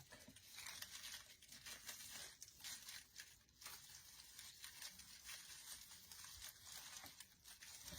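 Faint, irregular rustling and crinkling of artificial floral picks and pine sprigs being handled and pushed into a swag.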